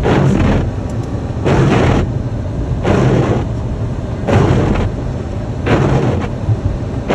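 Car windshield wipers sweeping across a snowy windshield, a swish about every second and a half, over the steady low rumble of the car's cabin while driving.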